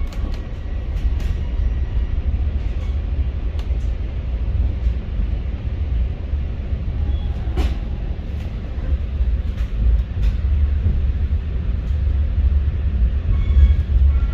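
Metra commuter train heard from inside a passenger car while moving: a steady low rumble from the running gear, with scattered sharp clicks and clacks of the wheels over rail joints and switches, one louder knock about halfway through.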